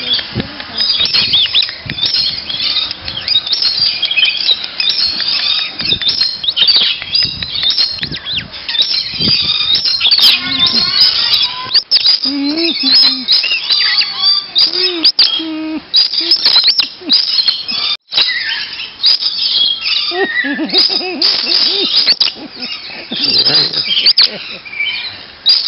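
Many tropical birds chirping and screeching at once, a dense, continuous high-pitched chatter with some lower squawks mixed in.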